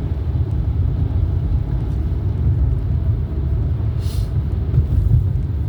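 Steady low road and engine rumble heard inside a moving car's cabin, with a brief hiss about four seconds in.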